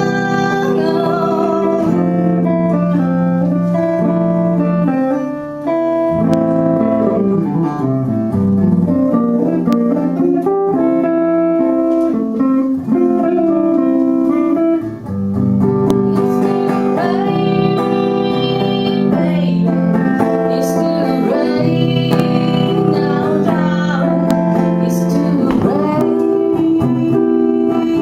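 Live music: a guitar playing an instrumental passage between sung verses of a song.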